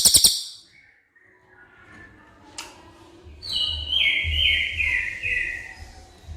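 Cililin songbird singing: a rapid, loud trill that breaks off just after the start, then about three and a half seconds in a run of about five slurred whistled notes stepping down in pitch.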